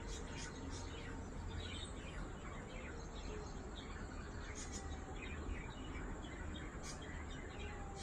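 Small birds chirping in short, scattered notes over a steady low background rumble.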